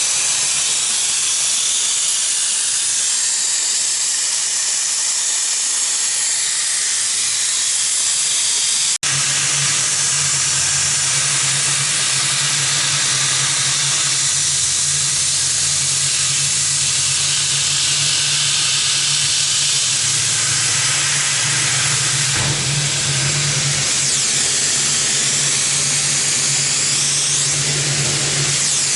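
Metal-cutting machine tool running: a steady hissing cutting noise over a low motor hum. The sound breaks off for an instant about nine seconds in, and the hum is stronger after that.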